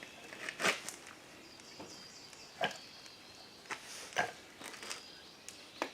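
Hand grease gun being worked onto a lawn mower's wheel-spindle grease fitting: a few scattered clicks and knocks with faint squeaks between them.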